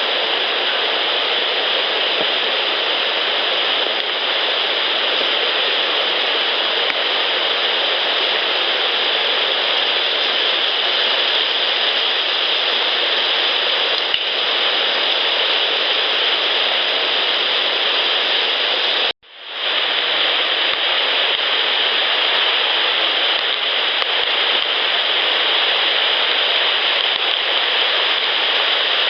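Steady loud hiss of a night-time field recording turned up high, with a faint tick about 14 s in. The sound cuts out abruptly for a moment about 19 s in where one clip ends and the next begins, then the same hiss resumes.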